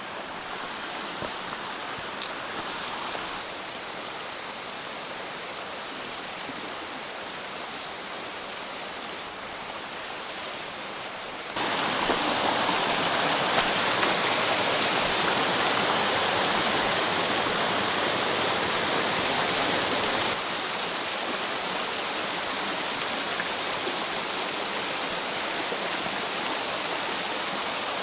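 Rushing water of a mountain stream, a steady noise that gets suddenly louder about twelve seconds in and drops back part of the way about twenty seconds in.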